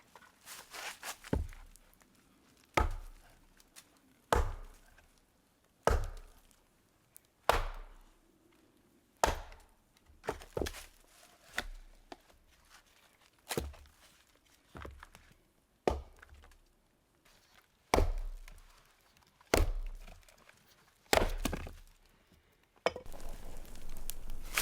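Firewood being chopped: about fifteen sharp chopping strikes into wood, one every second and a half or so. A few seconds before the end the strikes stop and a steady rustling begins.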